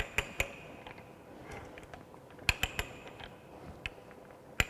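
Ratchet die stock of a hand pipe-threading set clicking and clacking on galvanized steel pipe as its ratchet is worked, in short clusters of two or three sharp clicks.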